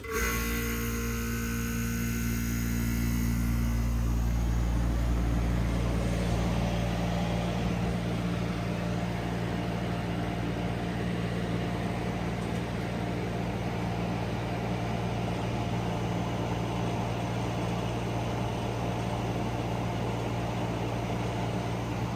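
1960s Philco-Ford window air conditioner starting up on low cool. It kicks on abruptly, hums louder for the first few seconds as it comes up to speed, then settles into a steady mechanical hum.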